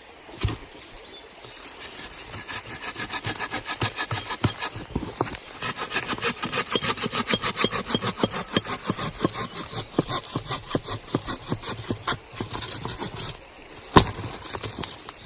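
Silky Pocketboy Curve folding saw cutting through a piece of wood in quick, even back-and-forth strokes, with a brief pause partway through. A sharp knock comes near the end.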